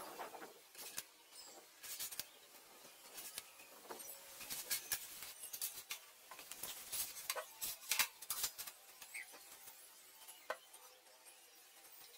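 Scattered light clicks and clinks of small hard objects being handled, irregular and unevenly spaced, with a denser cluster in the middle.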